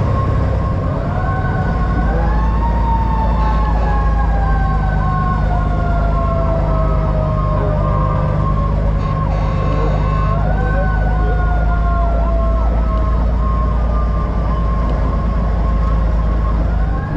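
Emergency-vehicle siren wailing: its pitch rises quickly and then falls slowly, starting over three times, with a fast pulsing tone alongside. Underneath runs the steady low rumble of a diesel truck engine.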